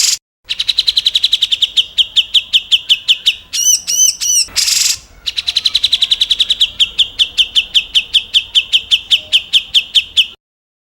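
A recorded songbird's rapid 'tembakan' shot call, the kind used as a tutoring track for competition songbirds. It is a fast trill of sharp downslurred notes, about nine a second, broken a few seconds in by a handful of looping notes and a short harsh rasp. The trill then resumes and cuts off suddenly near the end.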